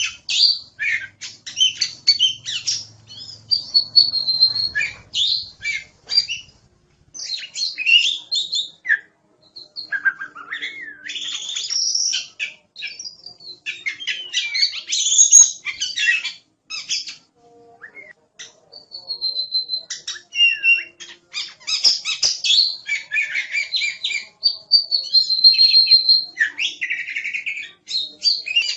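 Oriental magpie-robin (kacer) singing in full, active song: a long run of varied whistles, chirps and rattling phrases broken by brief pauses, with a few clear held whistles about four seconds in, near twenty seconds and again near twenty-six seconds.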